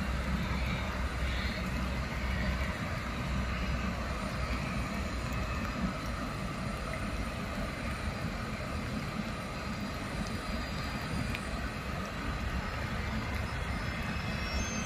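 Jet airliner engines running, a steady rushing noise with a deep rumble that eases after about two and a half seconds.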